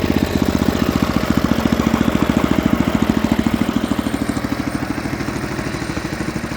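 Single-cylinder four-stroke 5 hp Tecumseh engine of an Ariens ST504 snowblower running steadily, its evenly spaced firing pulses clear, easing slightly about four seconds in.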